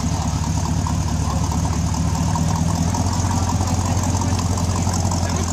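1956 Chevrolet's engine idling, heard from close behind its tailpipe as a steady, low-pitched engine note.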